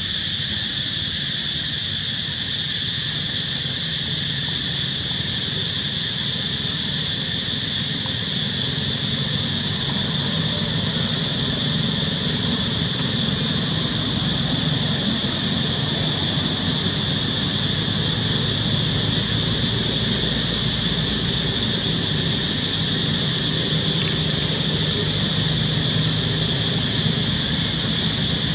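Steady outdoor background: a constant high-pitched drone, with a low rumble that grows louder after about ten seconds.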